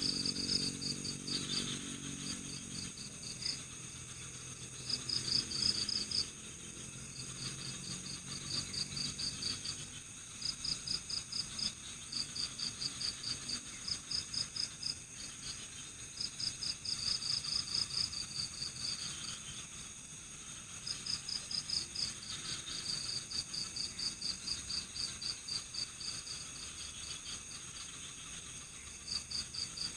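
Night-time crickets chirping in trains of rapid pulses, each lasting a second or two with short gaps between, over a steady high-pitched insect drone. A low hum fades out in the first few seconds.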